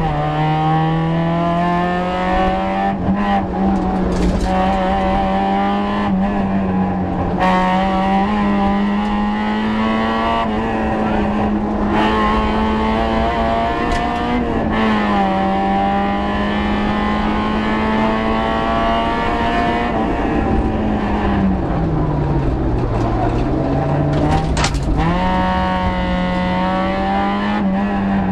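Citroën Saxo VTS rally car's 1.6-litre four-cylinder engine heard from inside the cabin, pulling hard and climbing through gear changes over the first several seconds. It then holds high revs along a straight, its revs fall sharply a little past twenty seconds and climb again near the end.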